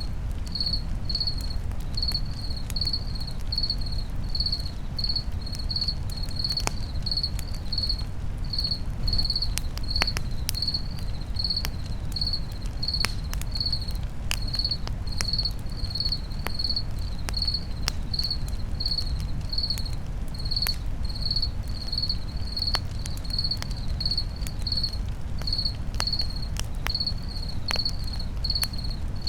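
A cricket chirping steadily at about two high chirps a second, over a steady low rumble and scattered sharp crackles of a campfire.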